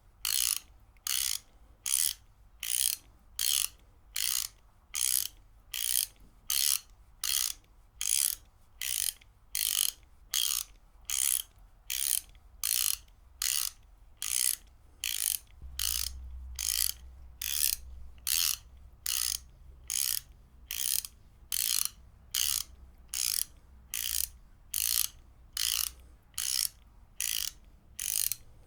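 Ratchet wrench clicking as it is worked back and forth: short bursts of rapid pawl clicks repeating in an even rhythm, a little under two strokes a second.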